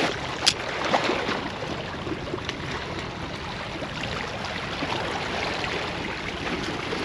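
Ocean surf washing steadily onto the beach, with one sharp click about half a second in.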